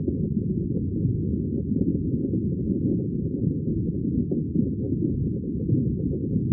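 Underwater ambience: a steady, deep, muffled churning of bubbling water.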